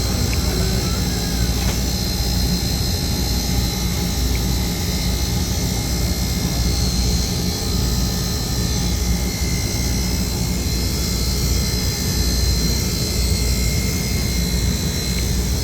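Single-phase refrigeration condensing unit (outdoor unit) for a walk-in cold store running steadily on its test run after replacement: compressor and condenser fan together give a constant low hum, with a thin steady high whine above it.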